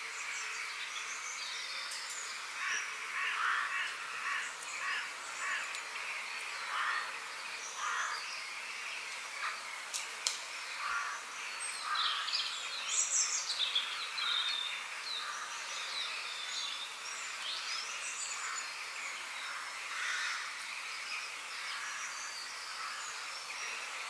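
Several wild birds chirping and calling in short notes over a steady outdoor background hiss, busiest about halfway through.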